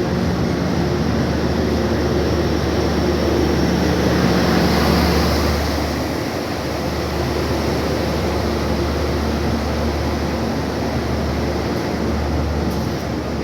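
Indonesian train passing straight through a station without stopping: a steady rumble and rush, loudest about four to five seconds in, then easing a little.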